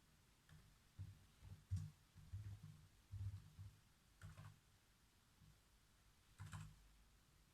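Faint typing on a computer keyboard: irregular keystrokes with soft low thuds and light clicks. They come in short runs from about a second in until four and a half seconds, pause, then a few more near the end.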